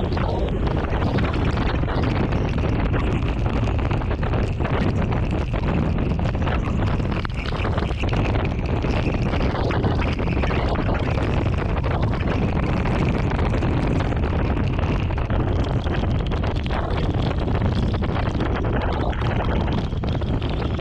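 Strong thunderstorm wind blowing across the microphone: a loud, steady rush of noise with no break.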